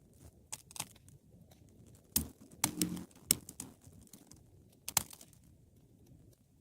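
Wood fire crackling: scattered sharp snaps and pops, the loudest cluster in the middle and another single pop about five seconds in, over a faint low rustle of the flames.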